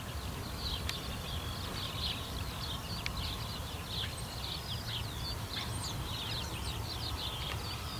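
Birds chirping in a dense, continuous stream of short calls, over a steady low rumble.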